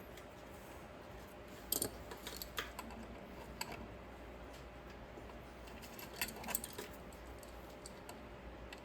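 Small metal brake parts and hand tools clinking and tapping as a brake shoe's horseshoe hold-down clip is worked, in a few short clusters of sharp clicks.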